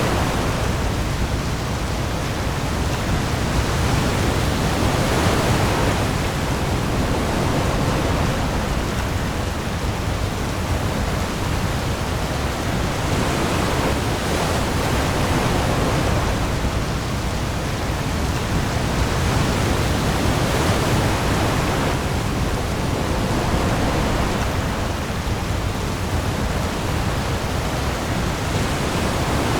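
Heavy rain falling on the open sea with waves, a dense, steady hiss that swells and eases every few seconds over a deep low rumble.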